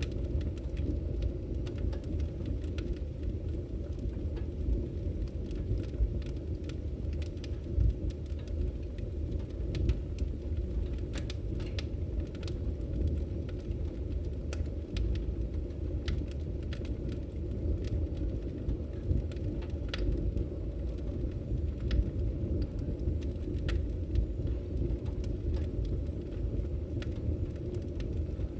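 Wood fire burning in a fireplace: a steady low rumble of flames with frequent small crackles and now and then a sharper pop.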